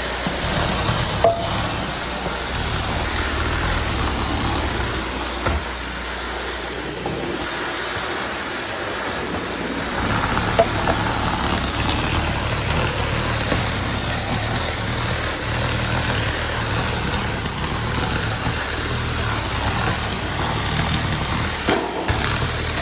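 Tile spinner rinsing and extracting a tile floor: a steady rush of vacuum suction over the low drone of the cleaning machine, with a few brief knocks.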